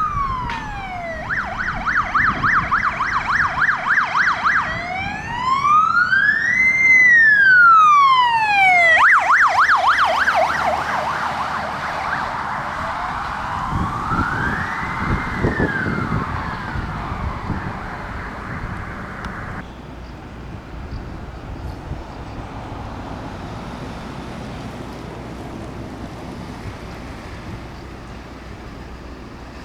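Emergency vehicle electronic sirens on a response run: a fast yelp switches to one slow rising-and-falling wail and back to the yelp, then a second, fainter wail comes and goes. After about twenty seconds the sirens fade into vehicle and road traffic noise.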